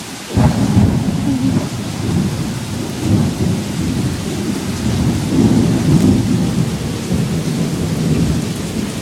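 A thunderclap breaks suddenly a moment in and rolls on as a long, loud low rumble, over the steady hiss of heavy rain.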